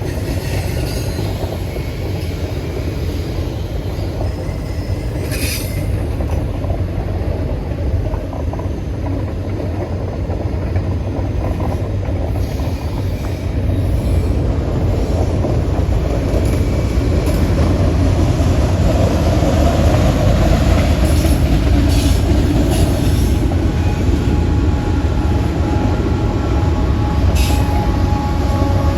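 Norfolk Southern freight train rolling past: a continuous rumble of wheels on rail with a few sharp clicks. It grows louder about halfway through, and thin steady squeals from the wheels appear near the end.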